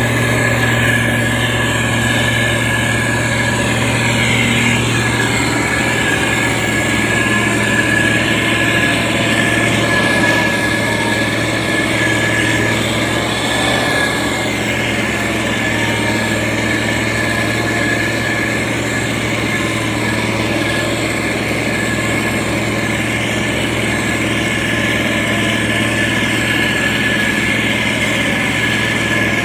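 Diesel engine of a SANY STG190C-8S motor grader running steadily, a constant hum with a thin steady whine above it.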